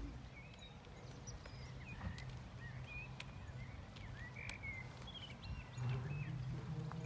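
Songbirds chirping and whistling in short, scattered phrases over a low background rumble, which gets louder about six seconds in.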